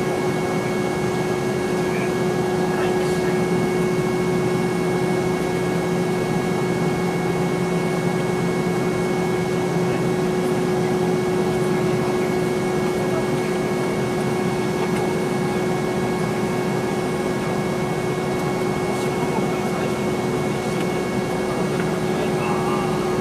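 Steady cabin noise inside a Boeing 717-200, heard from a rear window seat: the even whine of its tail-mounted Rolls-Royce BR715 turbofans running at a low, constant setting, over the hiss of the cabin air.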